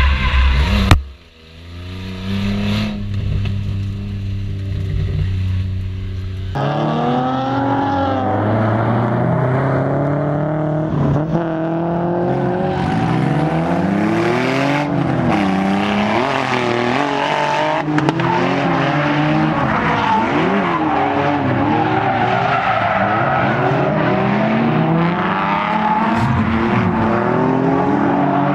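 Infiniti G35's V6 engine driven hard on a drift lap. After a sudden drop about a second in, the engine holds a steady note for a few seconds, then its revs rise and fall repeatedly, with tyres squealing.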